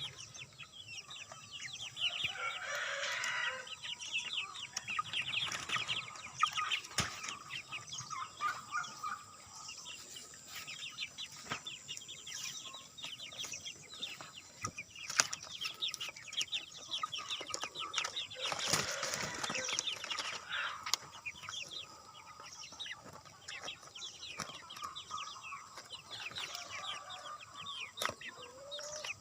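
Chicken chicks peeping continuously: many quick, high, downward-sliding peeps overlapping, with louder and lower calls a few seconds in and again just past the middle.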